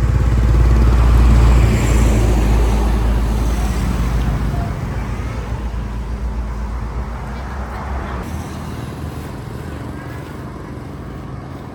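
A motor vehicle engine running close by, loudest a second or two in, then fading steadily as it moves away.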